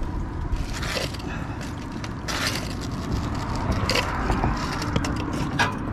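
Metal scraping and clanking in several short bursts from a magnet-fishing haul being hauled in on a rope, with a steady low rumble underneath.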